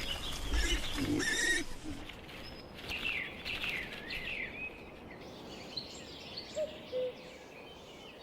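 Wild birds calling: a run of short, downward-gliding chirps, then a few short, low notes near the end.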